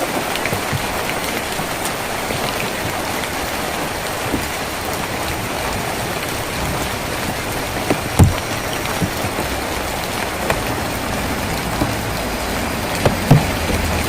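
Steady rain drumming on a tin roof, with a few louder single drops or drips striking about eight seconds in and twice near the end.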